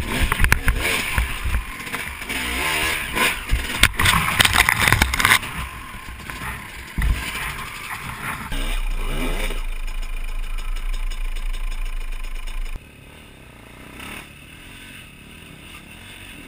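Dirt bike engine revving hard and unevenly, with sharp knocks about four seconds in. Later a steadier stretch with a low rumble, which cuts off suddenly and leaves a quieter stretch.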